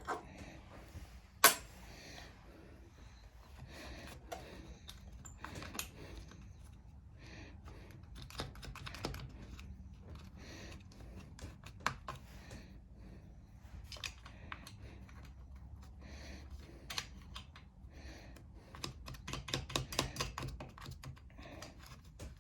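Irregular light clicks and taps of hand tools and small parts being handled during reassembly of a push mower's engine, with one sharp knock about a second and a half in and a quick run of clicks near the end.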